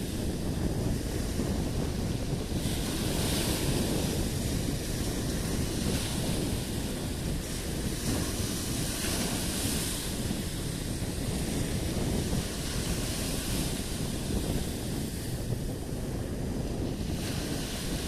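Black Sea waves breaking and washing up the shore, a hissing surge every three to four seconds, over a steady low rumble of wind buffeting the microphone.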